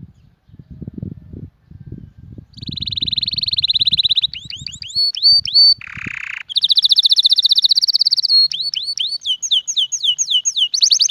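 Domestic canary singing, starting about two and a half seconds in after some low rumbling: a fast rolling trill, then a run of quick downward-sweeping notes, a short harsh buzzy note, another fast trill, more repeated down-slurred notes, and a fast trill again near the end.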